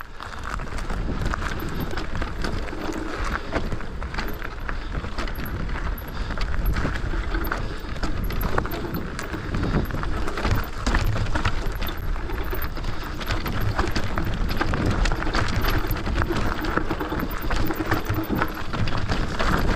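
Bike descending a rough, dusty trail: tyres crunching over dirt and stones, with a dense clatter of knocks and rattles from the bike as it rolls over the bumps.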